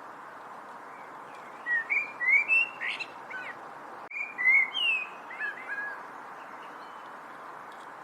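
A songbird singing two short phrases of quick, sliding whistled notes, the first about two seconds in and the second just after the middle, over a steady background hiss.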